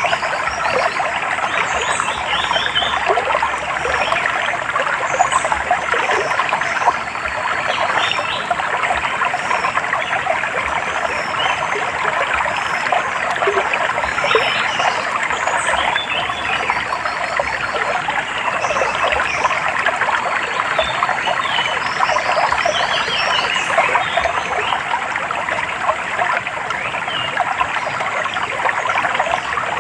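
A stream babbling steadily, with birds chirping here and there above the water.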